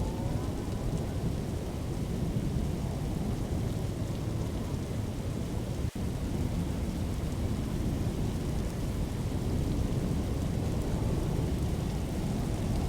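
Steady storm noise: a dense, low rumble of wind and heavy rain. It drops out for an instant about six seconds in.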